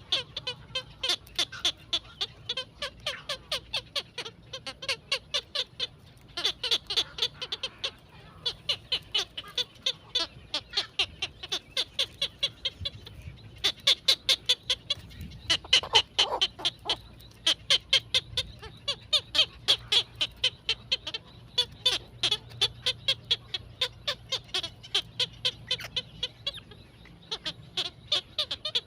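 Young birds chirping continuously in short, high calls, several a second. About halfway through there is a brief lower call.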